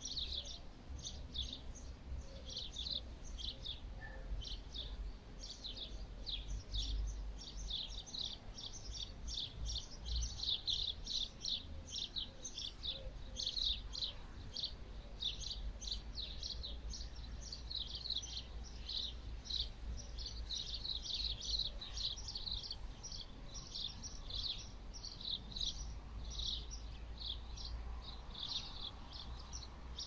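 Small birds chirping continuously, a dense run of short high chirps several times a second, over a low wind rumble on the microphone.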